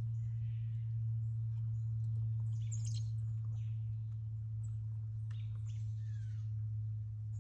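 Wild birds chirping now and then, a cluster of calls about three seconds in and another around five to six seconds, some sliding quickly down in pitch. Under them runs a steady low hum.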